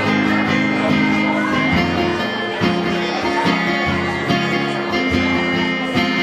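Live band playing an instrumental passage led by guitar, sustained chords changing every second or so, with no singing.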